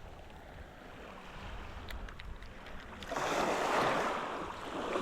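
Wind buffeting the microphone, then about three seconds in a wave washes up the beach with a swelling hiss that slowly fades.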